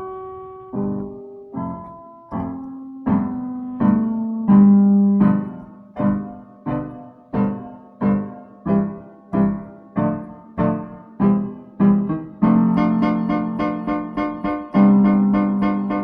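Piano playing a slow line of single struck notes, each dying away, at a steady pace of roughly one and a half notes a second. About three-quarters of the way through it moves into fuller chords with quicker notes.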